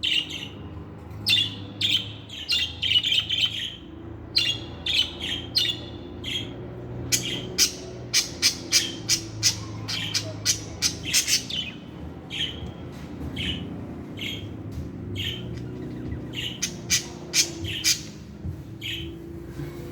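Budgerigars chirping and chattering in a steady stream of short, high chirps, with a fast run of chirps through the middle, over a low steady hum.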